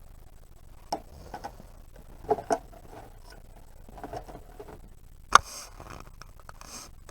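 Scattered clicks and knocks from a portable fridge being taken apart by hand, with a few light taps and one sharp click about five seconds in.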